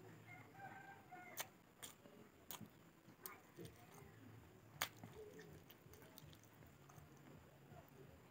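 Faint chewing of a mouthful of rice and pork, with a few sharp wet clicks spread through it.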